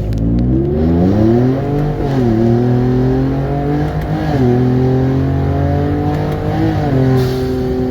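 Car engine under hard acceleration, its pitch climbing and then dropping sharply twice, about two and four seconds in, as the transmission upshifts. It then holds a steady pitch, with a brief rise near the end.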